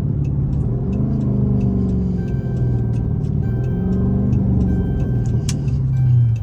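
Chrysler 300's 5.7-litre Hemi V8 engine accelerating, its pitch rising and easing off three times as it pulls through the gears. A light regular ticking runs alongside.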